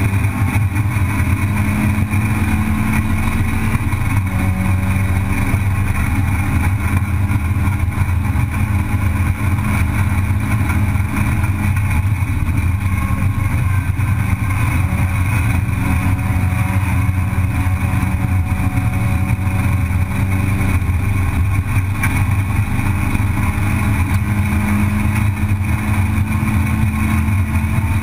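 Race car's engine heard from inside the cabin, running hard at high revs down a straight, with road and wind noise. The pitch stays mostly steady, with small shifts near the start and about four seconds in.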